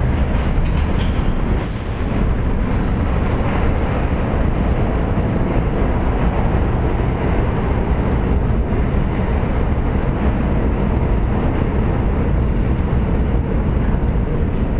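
A Budd-built R32 New York City subway train running on the track, with a steady, loud rumble of wheels on rail.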